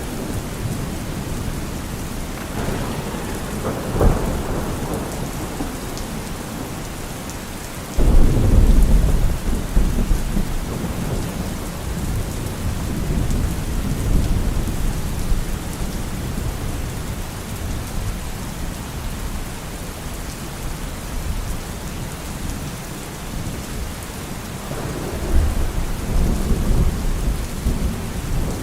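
Thunderstorm: steady rain with rolling thunder. A rumble ends in a sharp crack about four seconds in, a loud thunderclap breaks about eight seconds in and rumbles away over several seconds, and another rumble builds near the end.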